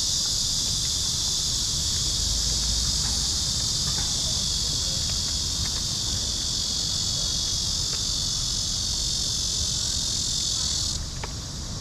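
Loud, steady insect chorus: a dense high-pitched buzz that cuts off suddenly near the end.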